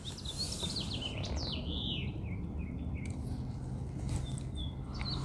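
Small birds chirping, a quick run of short rising and falling notes through the first few seconds and a few fainter notes later, over a low steady outdoor rumble.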